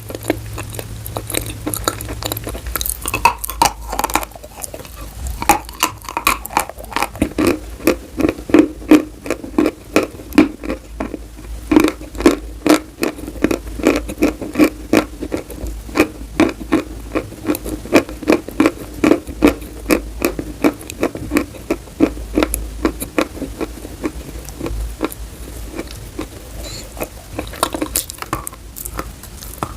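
Chalk being chewed up close, a steady run of crisp crunches about two or three a second.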